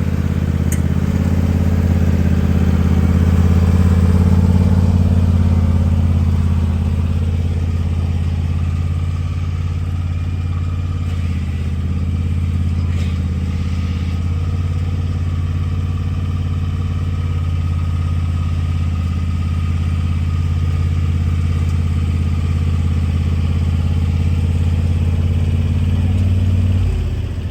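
Engine running steadily with a low, even hum, working a little harder a few seconds in, then shut off near the end.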